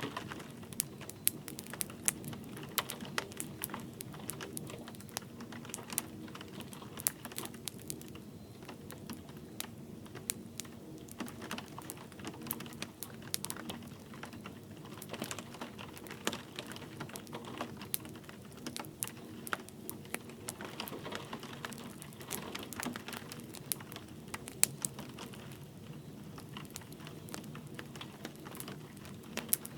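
Wood fire crackling with frequent irregular sharp pops over a soft, steady bed of light rain.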